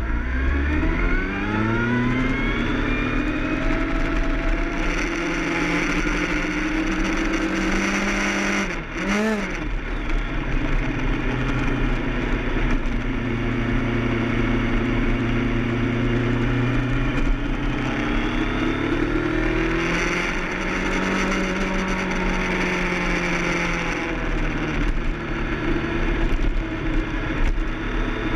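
Kawasaki ZX-10R's inline-four engine pulling away hard, its revs climbing over the first few seconds, then running at high revs on the track with the note rising and falling through the corners, over a steady rush of wind. About nine seconds in the engine note breaks off briefly and then climbs sharply again.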